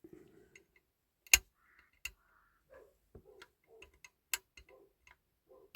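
Sharp clicks and taps of a small tool working at the tiny fuel filler cap of a 1/18 scale diecast model car to pry it out, a few isolated clicks with the loudest about a second in, over faint handling rustle.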